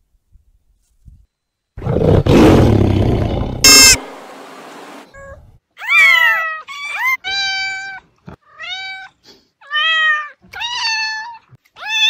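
Animal calls: a loud, rough roar lasting about two seconds, then, after a short pause, a run of about six short, high-pitched cries.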